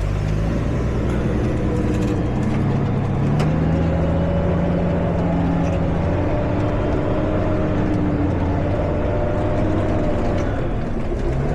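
Semi-truck diesel engine pulling under load, heard from inside the cab, its note rising in steps over the first few seconds and then holding steady.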